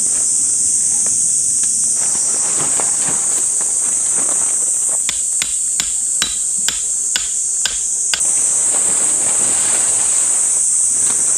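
A steady, high-pitched chorus of insects. Partway through comes a run of about eight sharp knocks, roughly two a second, that then stops.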